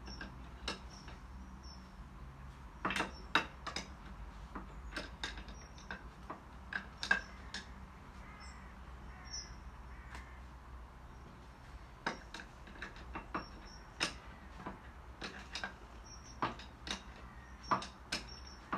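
Irregular light clicks and knocks, some in quick pairs, over a low steady hum, with faint short high chirps now and then.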